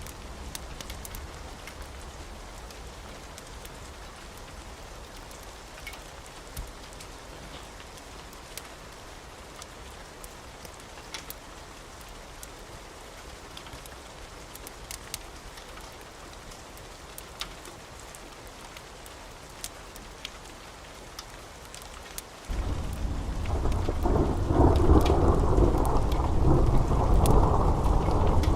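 Wood fire burning in a fireplace, crackling with scattered sharp pops. About 22 seconds in, a much louder low rumbling roar starts abruptly and continues.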